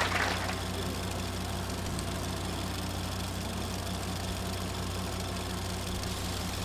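A modified car's engine idling steadily, a low hum with an even pulse.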